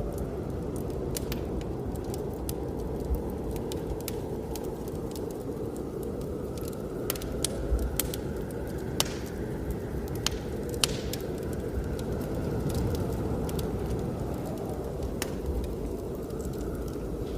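Wood fire crackling with scattered sharp pops over a steady low rumble of blizzard wind, with a faint whistle in the wind that rises and falls.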